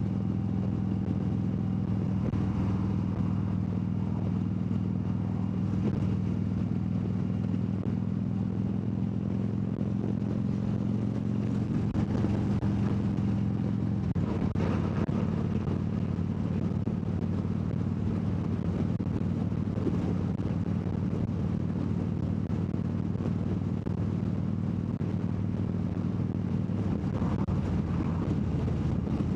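Harley-Davidson motorcycle's V-twin engine running at a steady cruise, its note shifting briefly about halfway through.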